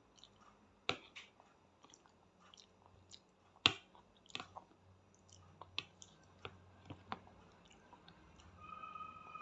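A small child chewing pasta with his mouth close to the microphone: irregular sharp mouth clicks and smacks, the loudest about a second in and just before four seconds. A steady high tone comes in near the end.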